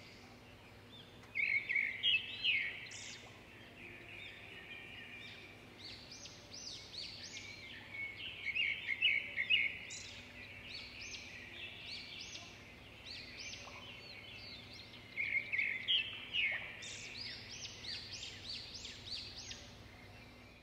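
Songbirds chirping and singing, a steady run of short high notes with louder bouts of rapid chirps three times.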